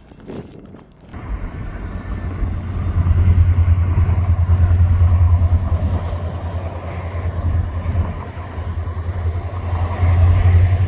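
Freight train rumbling past the crossing: a heavy low rumble that starts suddenly about a second in and swells a couple of seconds later.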